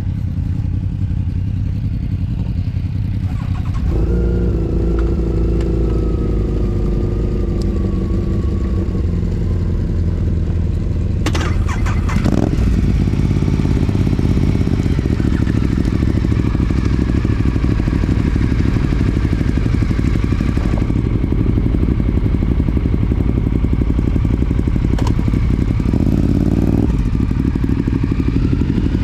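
Motorcycle engine running steadily on the move, with road and wind noise. The engine note steps up about four seconds in, and there is a brief clatter around eleven to twelve seconds in.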